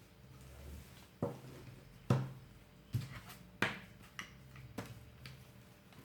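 Small sharp clicks and taps, about seven in a few seconds, from tools and phone parts being handled while a smartphone is taken apart.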